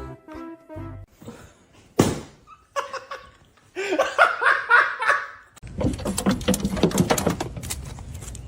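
A person laughing in quick pulses, after a sharp knock. A clattering noise full of clicks follows.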